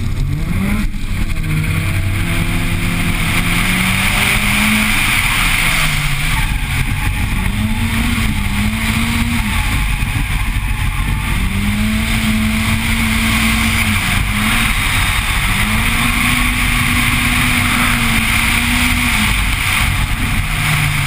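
Drift car's engine revving hard under heavy throttle, heard from a camera on the hood: the pitch climbs sharply at the launch, then rises, holds high for a second or two and drops again several times as the car is driven through the corners.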